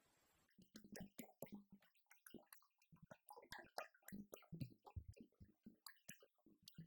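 Electronic drum kit played with sticks: a quick, irregular run of faint strikes and low thuds, starting about half a second in.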